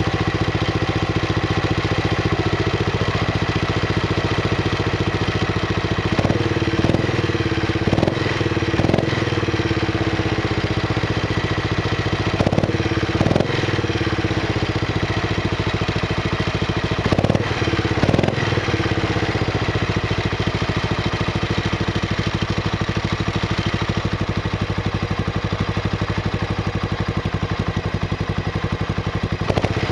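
2003 Buell Blast's 500cc single-cylinder engine idling steadily, with a series of quick throttle blips, mostly in pairs, in the first two-thirds where the revs jump and fall straight back.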